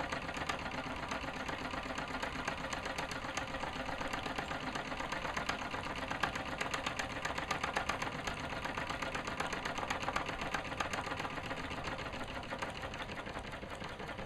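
A small engine running steadily, with a fast, even clatter.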